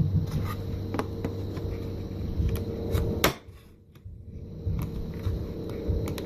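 Desk stapler clunking shut a few times as it staples paper flaps together, the loudest clunk about three seconds in.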